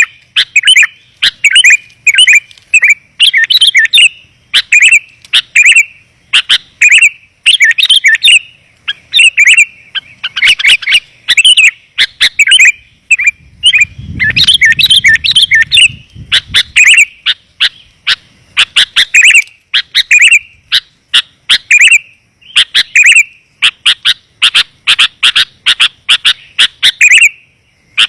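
Sooty-headed bulbul (kutilang) calls used as a lure call: loud, rapid, clear chirping phrases repeated closely one after another. A brief low rumble sounds about halfway through.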